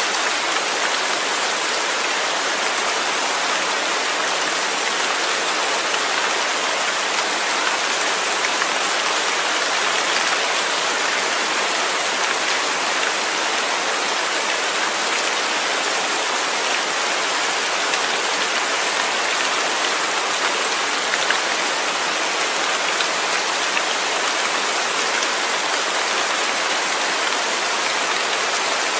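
Steady rain falling, an even hiss of many raindrops on a surface with no let-up.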